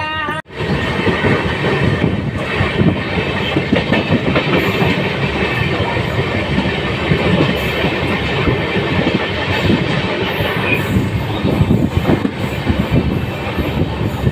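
Indian Railways passenger train running along the track, heard loud from an open coach door: a steady rumble with the clatter of wheels over the rails.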